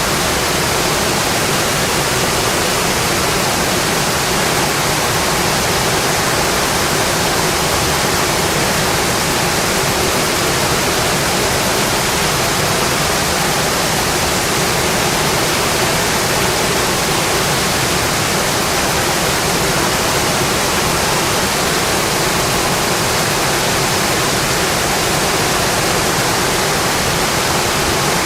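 Steady rain, an even, unbroken hiss with no distinct drops or breaks standing out.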